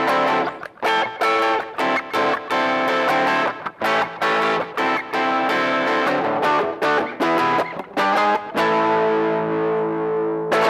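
Guitar instrumental music: a run of quick picked notes, then a chord left ringing from about two thirds of the way in, and another chord struck near the end.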